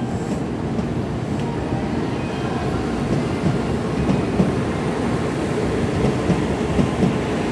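Tokaido Shinkansen train running: a steady low rumble of wheels and running gear, with a few light knocks.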